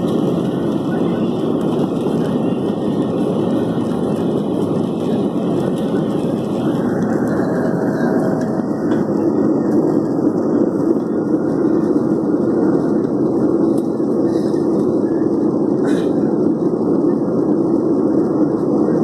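Steady roar of an airliner's engines and airflow heard inside the passenger cabin, with the upper hiss thinning out about a third of the way in.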